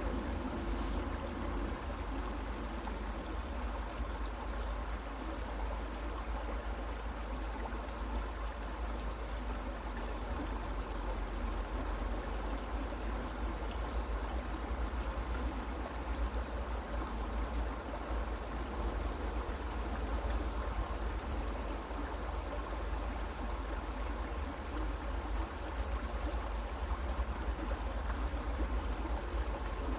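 Creek water flowing steadily: a continuous, even rushing with a deep rumble underneath.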